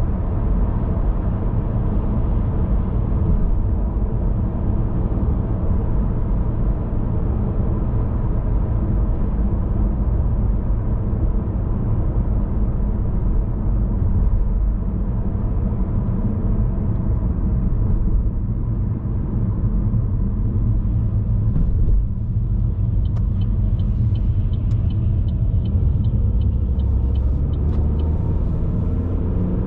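Steady low rumble of a car driving, road and engine noise as heard inside the cabin. In the last few seconds a run of light, evenly spaced ticks, about two a second, sounds over it.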